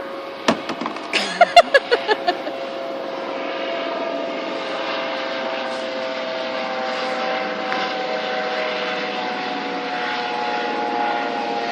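A steady mechanical hum made of several held tones, one of them edging up in pitch about halfway through, from a motor running continuously. A quick run of knocks and clatter in the first two seconds.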